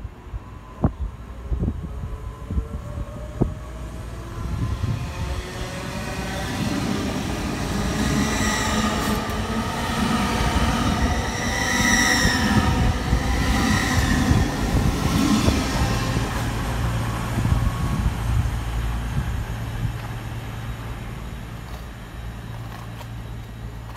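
GWR Intercity Express Train moving along the platform line. A few sharp clicks come first, then the noise builds into a rapid clickety-clack of wheels over rail joints, loudest about halfway. It eases into a steady low hum in the last third.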